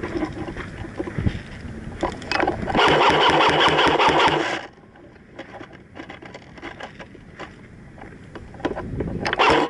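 Airsoft electric gun firing a full-auto burst of about two seconds, a fast, even rattle that stops abruptly. Another loud burst starts near the end, with clicks and rustling between them.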